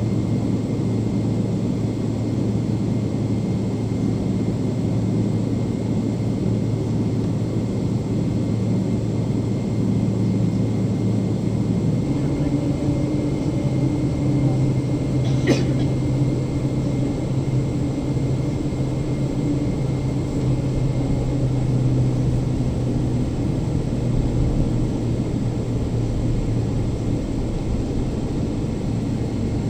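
Steady drone of a Boeing 777-300ER's GE90 jet engines heard inside the passenger cabin. About twelve seconds in the engine tone steps up in pitch, a change in thrust, and a short click comes a few seconds later.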